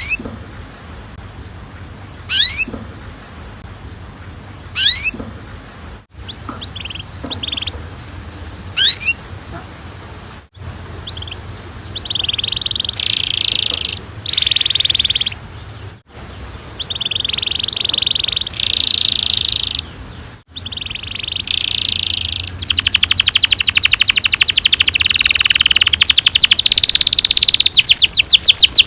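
Domestic canary singing: a few separate sweeping chirps at first, then louder bursts of song, building after about twenty-two seconds into a long, fast rolling trill.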